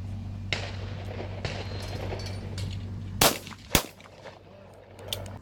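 Two shotgun shots half a second apart, fired at clay targets, over a steady low hum that stops at the second shot.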